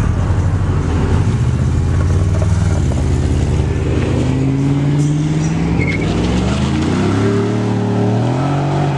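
Car engines running loud as cars pass, with one engine revving up, its pitch rising near the end.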